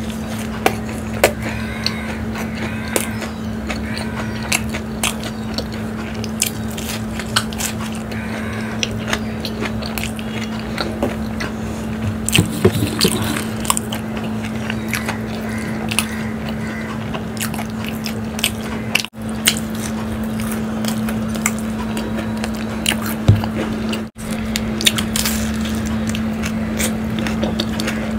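Close-miked chewing and biting of crispy fried samosas: many short crunchy crackles and wet mouth sounds over a steady low electrical hum. The audio cuts out for an instant twice.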